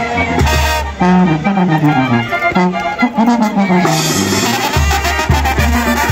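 A Sinaloan brass banda playing live: a brass melody over drums and a deep tuba bass line. The bass drops out about a second in and comes back near the end.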